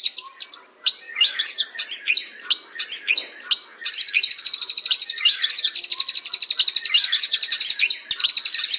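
White-rumped shama (murai batu) singing. A run of varied short whistled notes gives way, about four seconds in, to a long, fast, high trill that breaks off briefly near the end and starts again.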